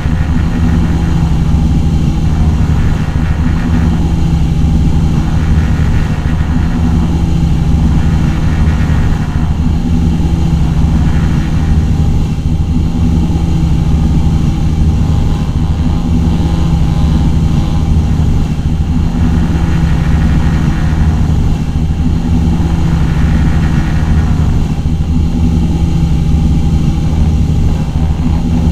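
Two 9.9 hp four-stroke outboard motors running together at steady high throttle, a loud, even drone that holds one pitch throughout.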